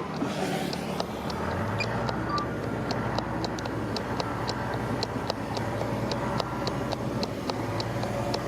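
Heavy construction machine's diesel engine running steadily, with a regular light clicking about four to five times a second.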